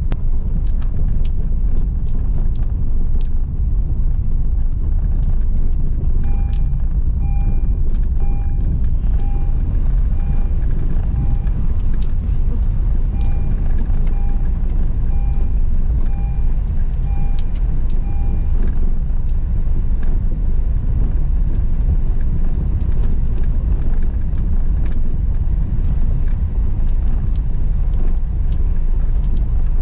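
Car driving on a rough unpaved rocky road: a steady low rumble of engine and tyres with scattered small knocks and rattles. From about six seconds in to about eighteen seconds, a car's electronic warning chime beeps about twice a second, pausing once briefly.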